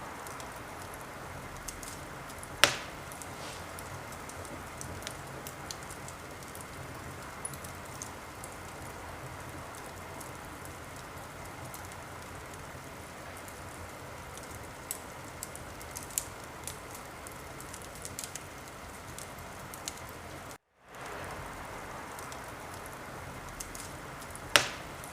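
Wood fire crackling in a fireplace: a steady hiss with scattered small crackles and two loud single pops, one near the start and one near the end. The sound drops out for a moment about 20 seconds in and fades back up.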